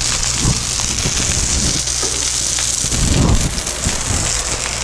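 Chicken breast and shrimp sizzling in oil on a hot flat-top griddle: a steady, dense frying hiss over a low hum, with a few soft knocks about three seconds in.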